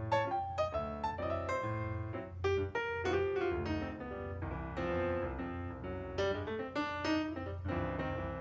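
Background piano music, a steady run of played notes.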